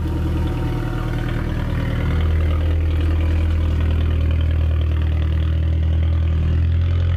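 Car engine running steadily with a deep, low note; it gets a little louder about two seconds in.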